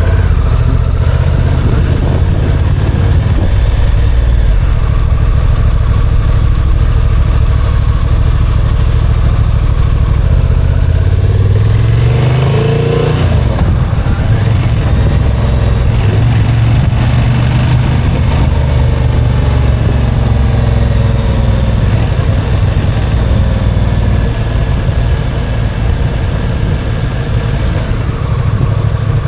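Motorcycles running, with one engine revving up in a rising pitch about twelve seconds in, then settling back.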